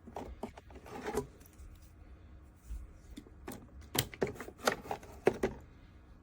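Light knocks and clicks of a small plastic mini fridge being handled, in two clusters: one in the first second or so, and a longer run from about three and a half to five and a half seconds in.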